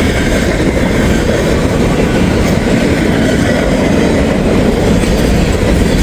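Freight train cars rolling past, a loud, steady rush of wheels on the rails.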